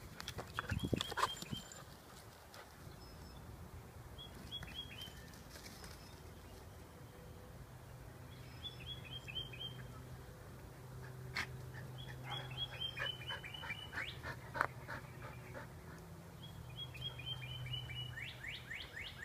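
A songbird singing the same short, rapid trill about every four seconds. A brief loud low sound comes about a second in.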